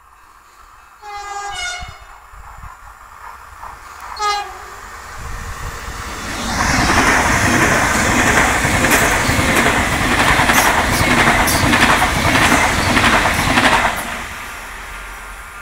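A Renfe passenger train sounds its horn twice as it approaches: one blast of about a second, then a short toot. It then rushes past at speed for about seven seconds, with rapid wheel clatter over the rails, and fades away.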